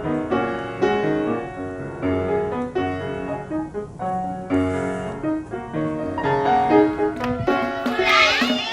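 Solo piano playing a brisk stream of notes. A brief high gliding sound comes in near the end.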